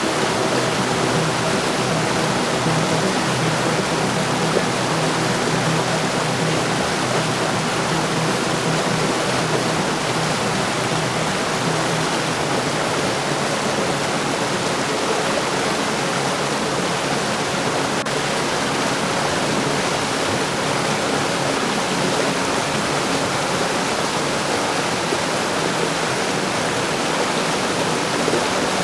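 Heavy rain falling steadily, an even, dense hiss with no thunder. Faint steady low tones sit underneath in the first several seconds and fade away.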